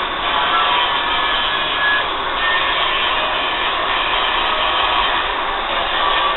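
Angle grinder grinding metal on a farm implement blade: a steady, loud grinding noise with a faint whine.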